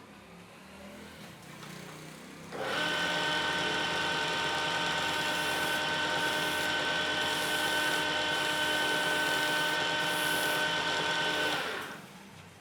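Electric power-tool motor switched on, running at a steady whine for about nine seconds, then switched off and winding down near the end.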